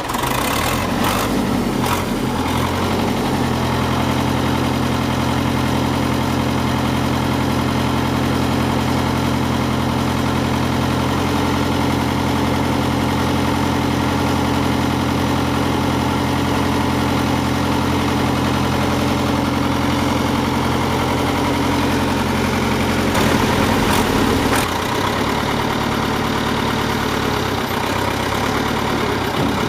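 Ford County 754 tracked logging tractor's diesel engine idling steadily just after being started. Its note shifts and briefly gets a little louder about three quarters of the way through, then settles again.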